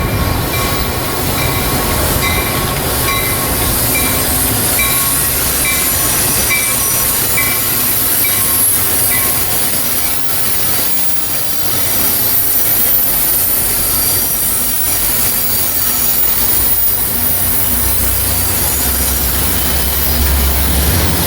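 Metra commuter train moving through the Chicago Union Station tracks, its wheels squealing on the rails under a steady rumble. A short high ring repeats a little more than once a second for the first nine seconds or so and then stops. A diesel locomotive's low engine rumble grows stronger near the end.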